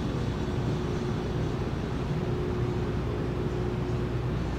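Steady low background hum with a faint held tone, unchanging throughout: the room tone of a large indoor showroom.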